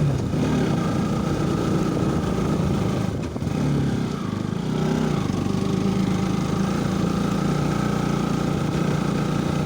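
Motorcycle engine running while riding slowly on a rough dirt road. The engine sound dips briefly about three seconds in, then wavers in pitch as the throttle changes before settling steady again.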